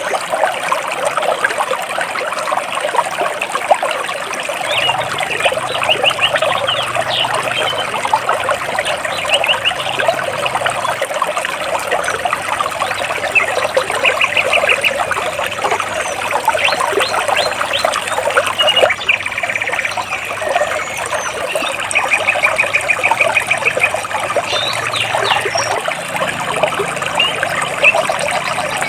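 Stream water splashing and trickling over large rocks, with birds chirping over it, including several short rapid trills at intervals.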